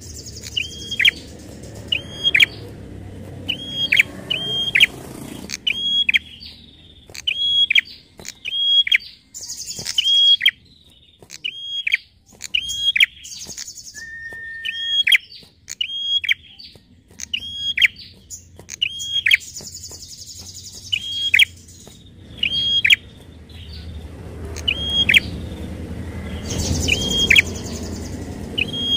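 Prinia (prenjak) calling over and over: a sharp high note about once a second, each dropping quickly in pitch, with scratchy buzzing rattles between some of them and one short level whistle near the middle.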